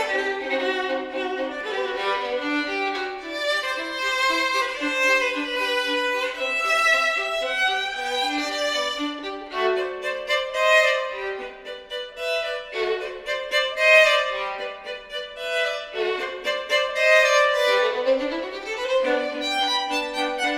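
Violin and viola playing a classical duet: two bowed lines of held and moving notes, with a rising slide in the lower part about two-thirds of the way through.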